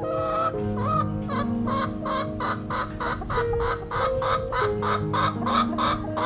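Chicken clucking in a quick run of short clucks, about four a second, over background music.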